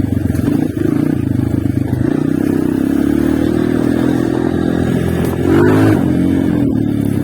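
Honda CRF230's single-cylinder four-stroke engine running steadily under way on a dirt trail, with a brief rev rising and falling in pitch about five and a half seconds in.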